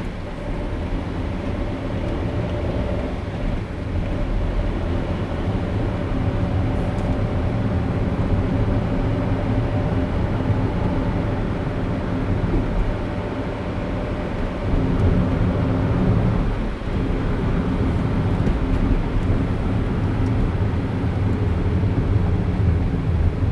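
Steady road noise of a car driving, tyres and engine, with a faint steady whine over the first several seconds and a brief swell in the noise about fifteen seconds in.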